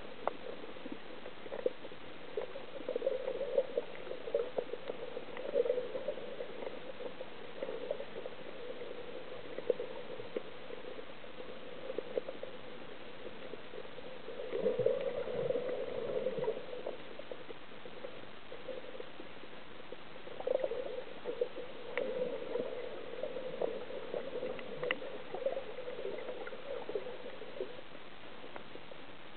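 Water bubbling and gurgling in spells of a few seconds over a steady hiss.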